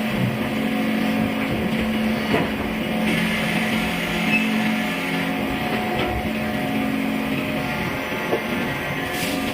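A machine motor drones steadily in a workshop, with a few sharp knocks, one about two and a half seconds in, others near six seconds and near the end.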